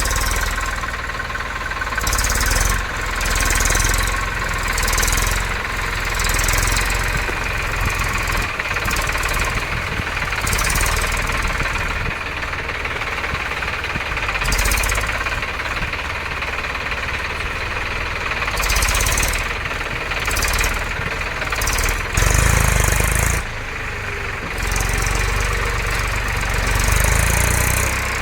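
Tractor diesel engine running continuously, its level swelling and dipping several times.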